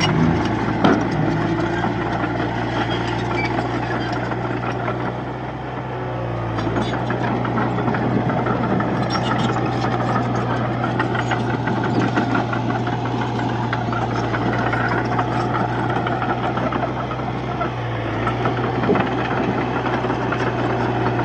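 Komatsu D31P bulldozer's diesel engine running steadily under load, with a metallic clatter over it. The engine note dips briefly twice, about six seconds in and again later.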